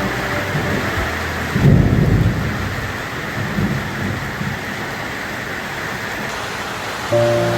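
Steady rain falling, with a low roll of thunder about two seconds in and a fainter rumble a little later.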